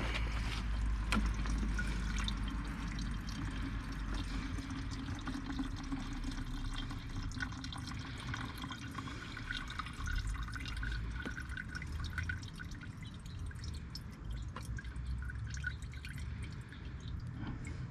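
Gasoline pouring and trickling out of a snowblower's fuel system into a container, a steady liquid trickle with drips.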